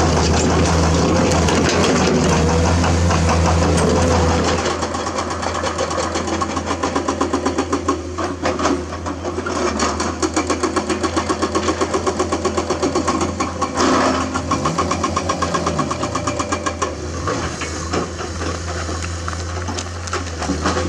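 Komatsu hydraulic excavator's diesel engine running hard, then dropping after about four and a half seconds to a lower, fast rhythmic chugging.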